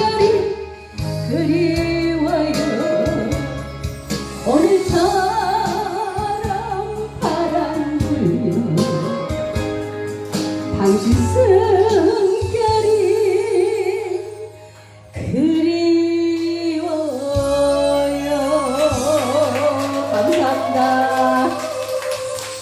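A woman singing a slow Korean song with vibrato over backing music with steady bass notes, with a brief drop in the music about two-thirds of the way through.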